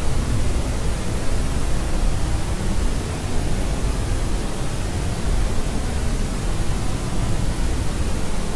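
Steady rushing white noise with its weight toward the low end, like pink noise, unchanging throughout.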